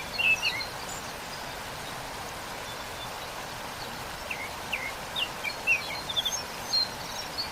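Steady rush of a waterfall, with small songbirds chirping: a few quick high notes at the start, then a run of short chirps over the last three seconds.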